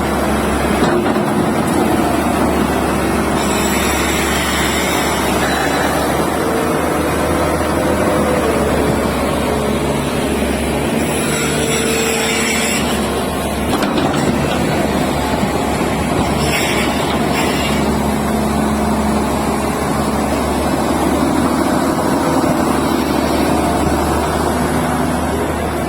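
Tata Hitachi Super 200 excavator's diesel engine running steadily, with a whine whose pitch shifts now and then.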